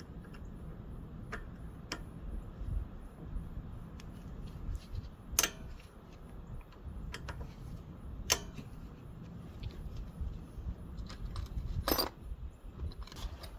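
Scattered metallic clicks and clinks of hand tools on the valve adjusters of a Briggs & Stratton engine as the adjuster set screws are loosened with a Torx driver, with a few sharper clinks.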